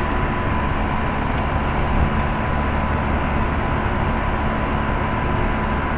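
Central air-conditioner condensing unit running: a steady hum of the compressor and condenser fan, with a thin, constant tone over the noise.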